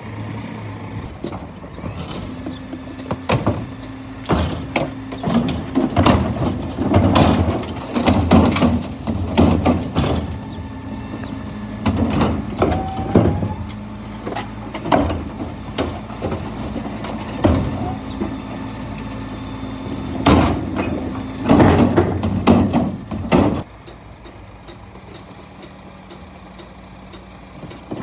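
Scania P320 refuse truck running with its hydraulics working, while bins are lifted and tipped by the Terberg bin lifters, giving a steady drone and repeated knocks and bangs. About 23 seconds in the hydraulic drone and banging stop, leaving the truck idling more quietly.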